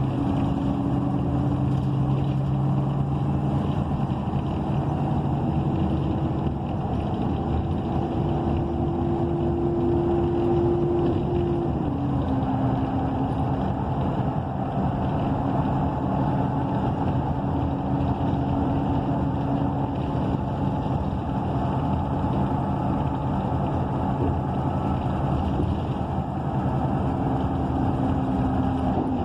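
Transit bus under way, heard from inside the cabin: the Cummins Westport ISL G natural-gas engine and Allison automatic transmission running with steady tones over road noise. The higher tone drops in pitch about twelve seconds in and holds there.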